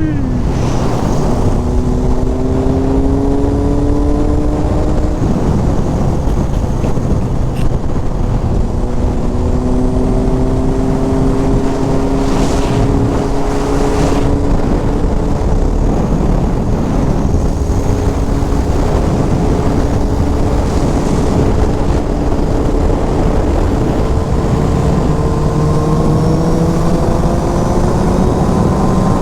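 Inline-four sportbike engine under hard acceleration at speed, its pitch climbing slowly through the gears and dropping back at each upshift, with heavy wind rush on the microphone.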